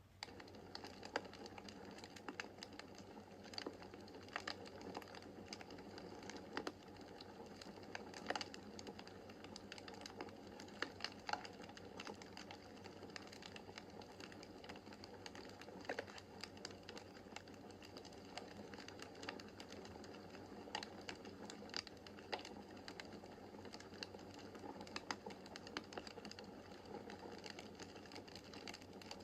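Wood fire crackling in a fireplace: a soft steady rush of burning with frequent sharp pops and snaps at irregular intervals. It cuts in suddenly at the very start.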